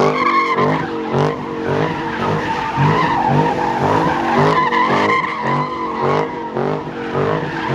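A car's tyres squealing in a steady high tone as they spin, over the engine revving up and down about twice a second.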